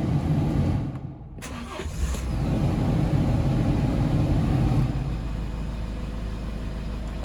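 Hyundai Porter II truck's 2.5-litre diesel engine being started: after a brief drop about a second in, the engine catches and runs up, then settles to a steady idle from about five seconds in.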